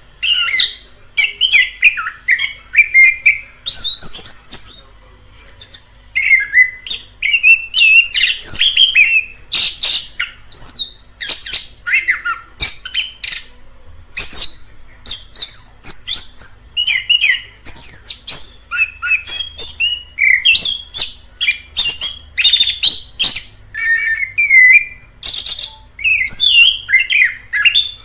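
Chestnut-capped thrush (anis kembang) singing a long, varied song of quick whistled phrases and sharp chips, one phrase after another with short gaps.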